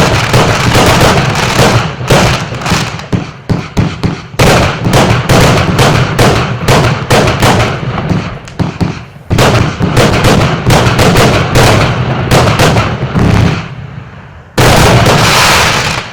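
Multi-shot fireworks battery (cake) firing: rapid, overlapping bangs several a second. After a brief lull near the end comes a last loud, dense burst that then fades.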